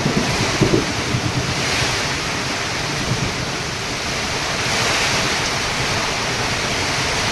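Heavy rain falling in strong wind, a steady hiss, with wind gusts buffeting the microphone in the first second.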